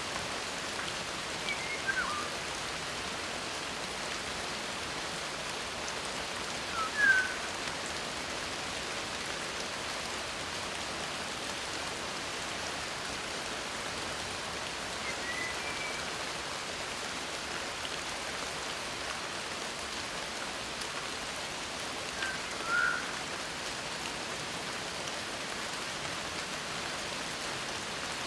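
Steady rain hiss, with four short bird chirps spaced through it, the loudest about seven seconds in.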